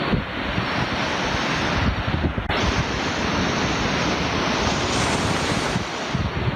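Black Sea surf washing onto the beach under strong wind, the wind buffeting the microphone. The sound drops out for an instant about two and a half seconds in.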